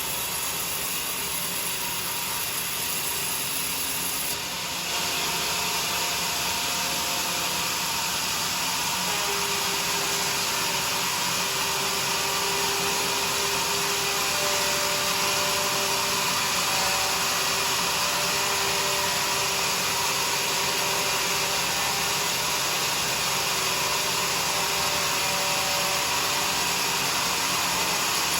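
Sawmill saw cutting through a teak log: a steady sawing noise with a faint whine, a little louder from about five seconds in.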